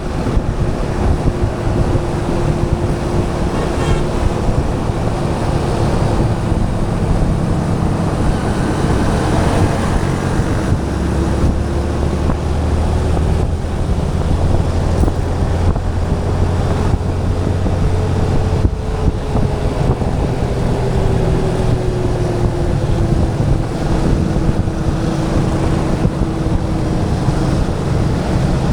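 Yamaha FZ 2.0 single-cylinder motorcycle engine running under way, its note easing down and rising again slightly with road speed, with heavy wind noise over the camera microphone.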